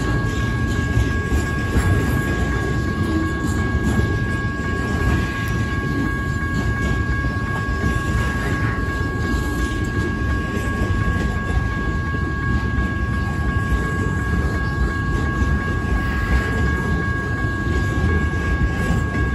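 Double-stack intermodal freight train's container cars rolling past close by: a loud, steady rumble and rattle of wheels on rail. Two faint steady high tones sit above the rumble without change.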